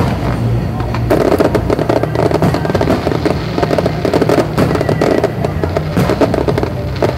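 Fireworks going off in quick succession, many sharp cracks and crackles that thicken about a second in, with music playing underneath.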